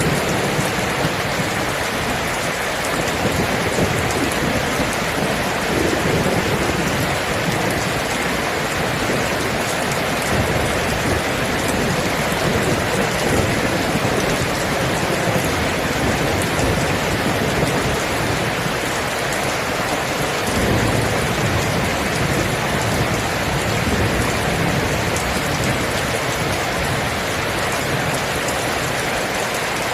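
Steady heavy rain, with low rumbles of thunder swelling and fading underneath at times.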